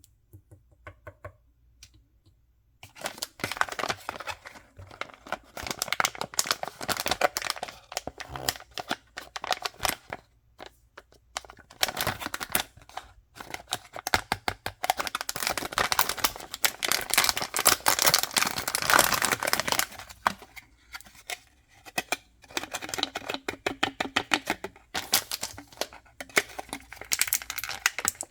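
Packaging being torn open and crinkled by hand while unwrapping mystery toys. After a few faint ticks, dense crackling and tearing starts about three seconds in and goes on in spells with brief pauses.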